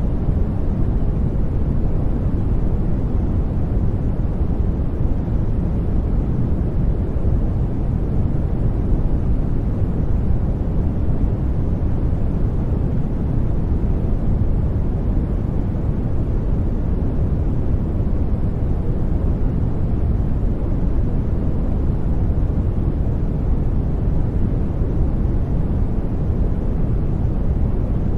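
Steady generated noise: an even, unbroken rumbling hiss, deep and dark rather than bright, with most of its weight low down and little at the top.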